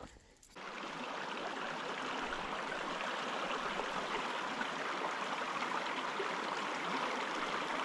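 Small mountain creek rushing over rocks, a steady even wash of water that starts abruptly about half a second in.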